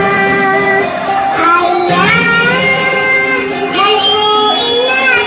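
A child singing a melody, holding notes and sliding between them, with musical accompaniment behind.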